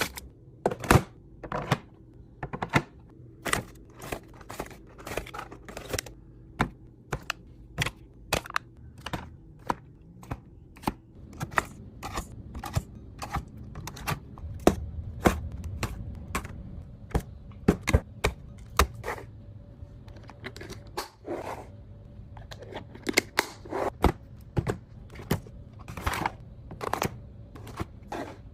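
Irregular clicks and knocks of containers, jars and lids being set down and arranged on refrigerator shelves, one or two a second, over a faint low hum.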